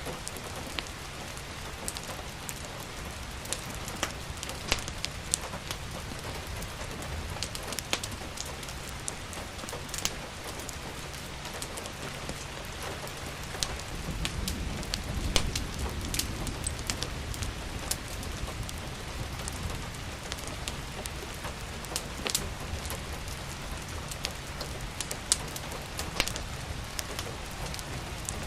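Steady rain falling, mixed with the scattered sharp pops and crackles of a wood fire burning in a fireplace. A low rumble swells briefly about halfway through.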